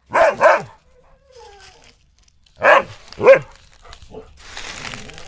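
A dog barking: two loud barks in quick succession, then two more about two and a half seconds later.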